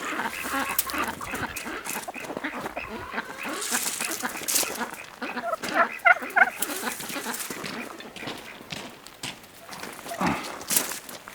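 Farmyard poultry calling, with a quick run of rapid calls about six seconds in.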